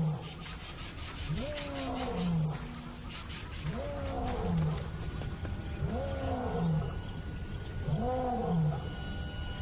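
Pride male lion roaring: a run of about five deep calls, each rising then falling in pitch, roughly every two seconds. It is the territorial roar that proclaims ownership of the lioness and the area.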